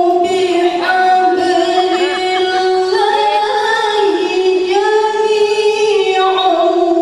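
A woman's voice reciting the Quran in the melodic tilawah style. She holds long, drawn-out notes broken by quick ornamental turns, and the pitch steps up and down between phrases.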